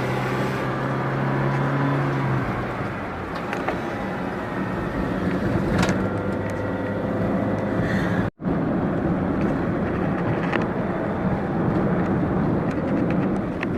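Car driving along a road, with steady engine and tyre noise. The sound cuts out completely for an instant a little past halfway.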